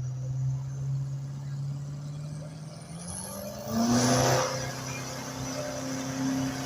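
Duramax diesel pulling truck's engine running steadily, then revving up about three seconds in and holding at higher revs, with a loud rush of noise at about four seconds.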